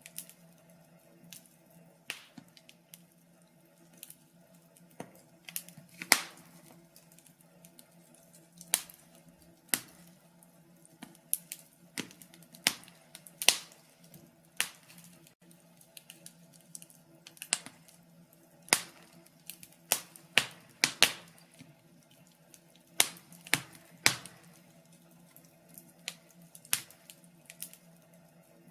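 Wood fire in a fireplace crackling, with irregular sharp pops and snaps, a few much louder than the rest, over a faint steady low hum.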